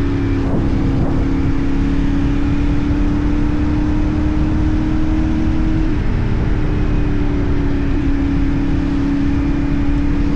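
CFMoto 450NK's parallel-twin engine running steadily at cruising speed, its note holding level with small shifts in pitch about six and eight seconds in, over a constant rush of wind and road noise.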